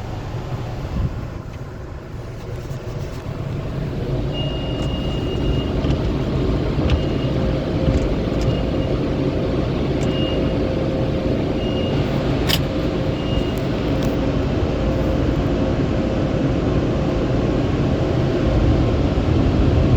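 Automatic car wash machinery running with a steady rushing rumble that grows louder. A hum sets in about four seconds in, and short high beeps sound a few times through the middle.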